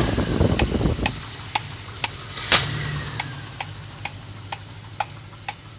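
A low rumbling noise that cuts off about a second in, followed by steady, even clicking about twice a second over a faint hum, with one louder click near the middle.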